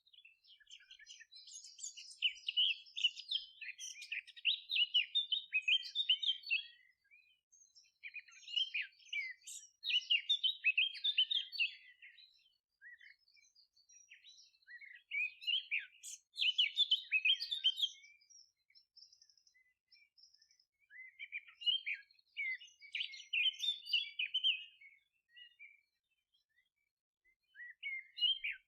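Songbirds singing in bouts of rapid, twittering chirps a few seconds long, with short pauses between the phrases.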